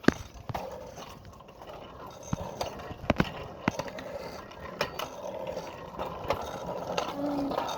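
Irregular mechanical clicks and rattles from a bicycle's chain and drivetrain as a chain that has come loose is handled, with one sharper click about three seconds in.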